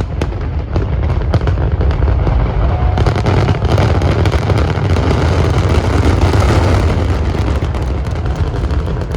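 Fireworks going off in a dense, rapid barrage of cracks and booms over a steady deep rumble, easing off a little near the end.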